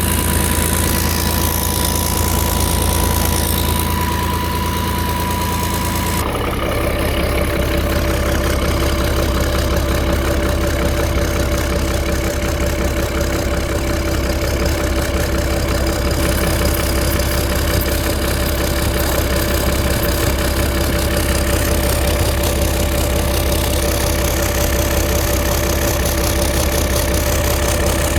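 Boat's starboard turbocharged engine running steadily at idle, with an exhaust leak between the cylinder head and the turbo. Its steady hum shifts in tone about six seconds in.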